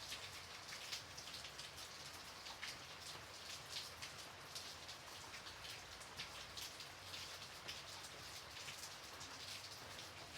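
Gentle, steady rain with many individual drops pattering on a surface.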